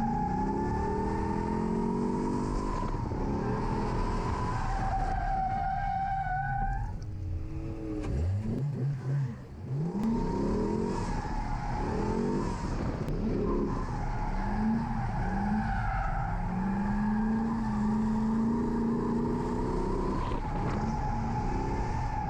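A C6 Corvette's LS V8 revving up and down through a drift run, with the tires squealing in a steady high tone. About eight seconds in, the engine briefly drops off, then picks back up.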